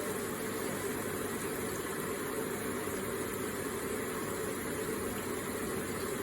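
Water running steadily from an electric water feature, an even, unbroken water sound.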